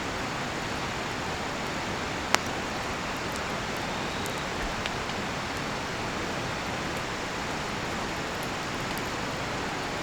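Steady rushing of a nearby river, with a single sharp pop from the burning cedar firewood about two seconds in and a smaller crackle a couple of seconds later.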